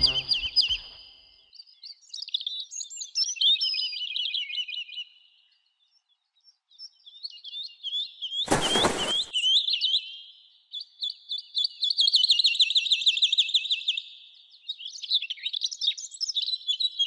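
Songbirds chirping and trilling in runs of rapid high notes, broken by a few pauses, with a short burst of noise about eight and a half seconds in.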